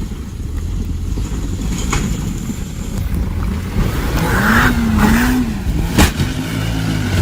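A vehicle's engine and road noise rumbling steadily, with a wavering tone rising and falling near the middle and one sharp bang about six seconds in.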